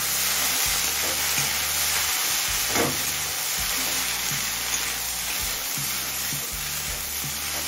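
Prawn heads and chopped kharkol stems sizzling in hot mustard oil in a metal kadai, stirred with a metal spatula that scrapes and knocks against the pan now and then, once more loudly about three seconds in.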